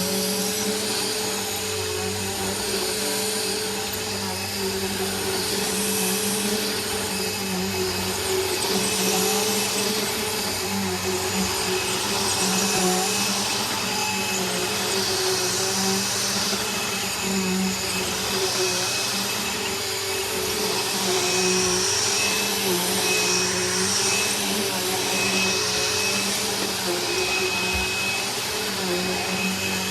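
Bissell Rewind SmartClean bagless upright vacuum cleaner running steadily on a rug: a constant motor hum with a thin high whine over it, and a rushing airflow that swells and eases every few seconds.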